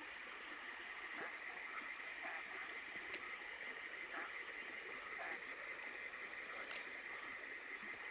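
Night rainforest ambience: a stream flowing, with a steady high chirring and a very high buzz that repeats in about one-second pulses roughly every two seconds, like calling insects.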